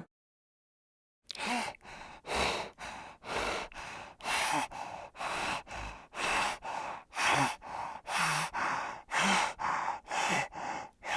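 Heavy, rhythmic breathing: noisy in-and-out breaths, alternating louder and softer, about one full breath a second, starting about a second in.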